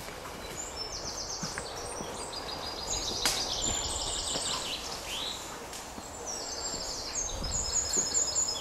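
Songbirds singing, runs of quick, high, repeated notes, over a steady rustle of movement through grass. A sharp click about three seconds in.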